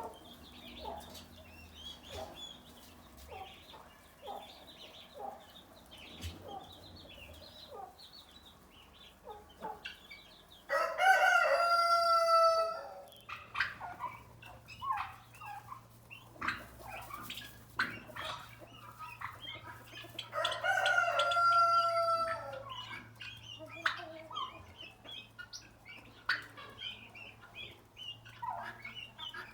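A rooster crowing twice, each crow about two seconds long and some ten seconds apart, with chickens clucking softly in between.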